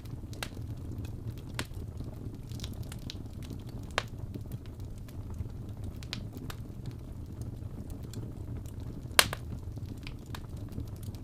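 Wood fire in a fireplace burning with a steady low rumble and scattered crackles, with a sharp louder pop about four seconds in and the loudest pop about nine seconds in.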